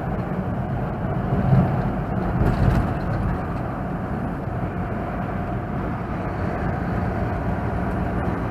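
Steady engine and road rumble of a moving truck, heard from inside the cab.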